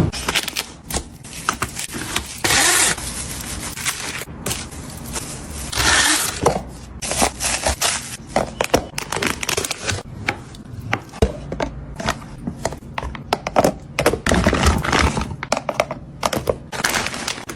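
Objects being handled and set down: a run of irregular knocks, taps and clicks, with longer scraping or rustling sounds about two and a half seconds and six seconds in.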